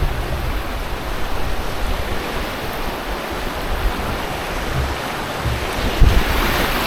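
River water rushing steadily, with wind buffeting the microphone as low rumbles. The rush grows louder and brighter near the end.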